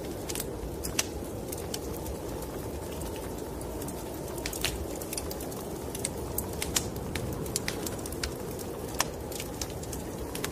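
Wood fire crackling in a fireplace, with irregular sharp pops and snaps over a steady low rush of snowstorm wind.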